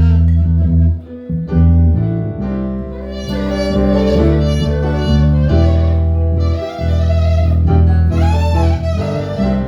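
Instrumental music with bowed strings, played over sustained low notes; the upper line wavers in pitch near the end.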